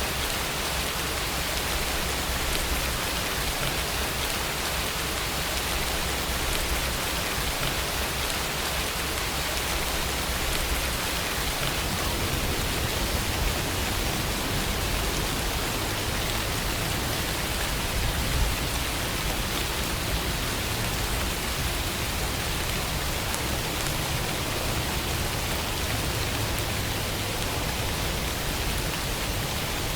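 Steady rainfall: an even hiss of rain falling on surfaces, with a low rumble underneath.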